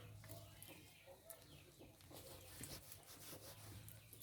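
Faint chickens clucking, with scattered light rustles and clicks and a low steady hum.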